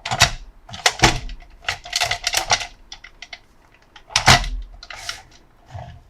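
Plastic toys and their packaging being handled, with irregular sharp clicks and knocks and short rustling bursts. The loudest knock comes a little past four seconds in.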